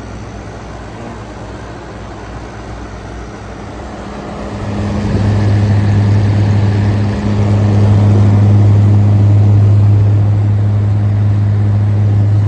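Air conditioner running in cool mode: the compressor's steady low hum over the fan's rush of air. The hum becomes much louder about four and a half seconds in and stays strong, with a brief dip near seven seconds.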